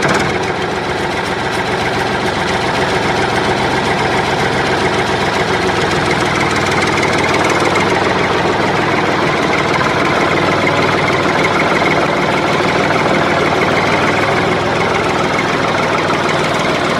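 Toy JCB tractor running, a steady continuous motor noise that grows a little louder over the first couple of seconds.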